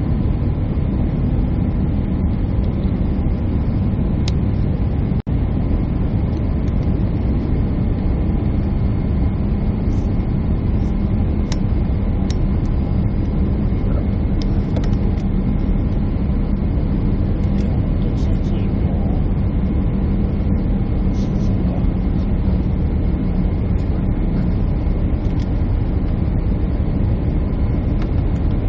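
Steady engine and airflow noise inside a jet airliner's cabin, with a constant low hum.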